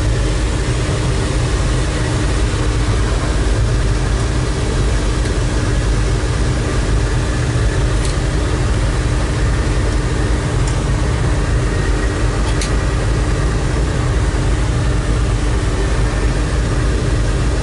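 Small-block Chevy 383 stroker V8 with side pipes running steadily at a low, even rumble, heard from inside the car's cabin.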